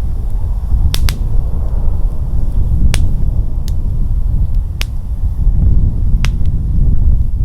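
Wood fire crackling, with about six sharp pops and snaps at irregular intervals over steady wind rumble on the microphone.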